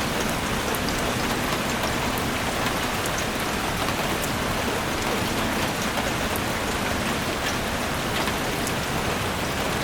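Steady rain falling on forest foliage, an even hiss with many small drops ticking throughout.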